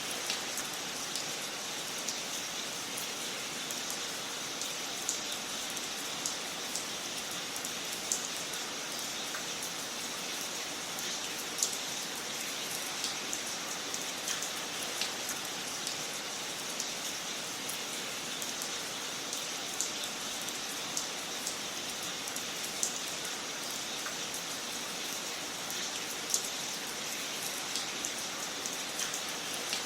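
Wood fire crackling in a fireplace: a steady hiss full of small crackles, with a few louder pops scattered through it.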